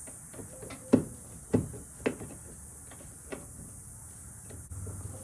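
Three sharp knocks about half a second apart, then a lighter knock and a few faint clicks: parts of a pickup truck's door being handled and knocked during disassembly.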